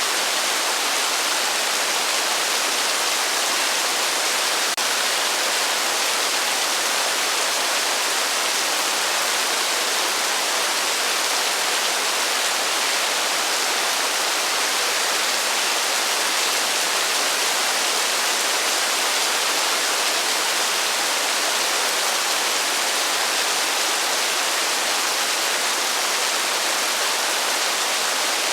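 Heavy rain falling as a steady, even hiss with no thunder.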